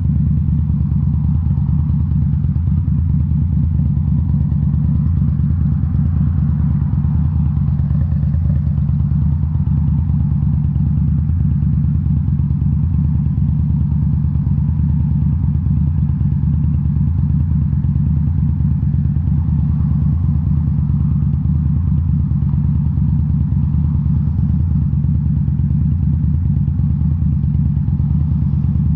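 2018 Indian Scout Bobber's V-twin engine running through Rinehart slip-on mufflers, a deep, steady exhaust note held at an even engine speed.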